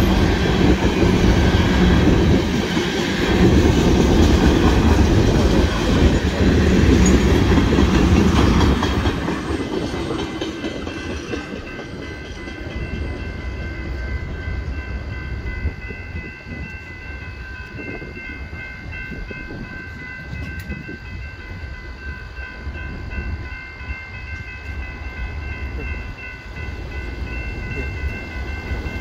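Freight cars of a Union Pacific mixed freight train rolling over the rails with a heavy rumble, which fades out about ten seconds in as the end of the train clears the crossing. The grade-crossing warning bell rings on steadily afterwards.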